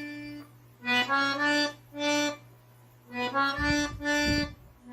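Accordion played slowly, note by note: short groups of melody notes separated by brief pauses, with a held note at the start and another at the end. Two low bass notes sound beneath the melody near the end.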